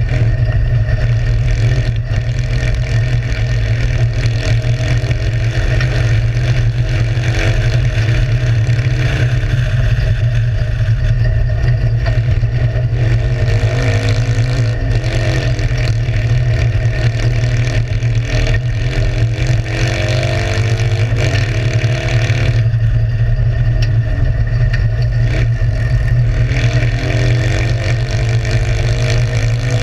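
Citroën 2CV's air-cooled flat-twin engine heard from inside the cabin under hard driving, its note climbing repeatedly as it revs and dropping back between climbs, over a constant heavy low rumble.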